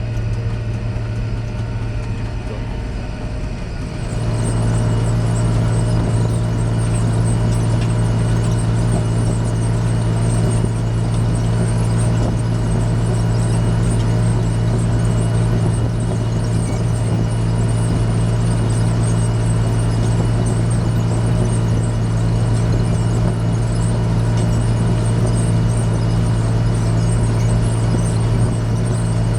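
Large farm tractor's diesel engine running steadily under a continuous low drone. It gets louder and fuller about four seconds in, then holds steady.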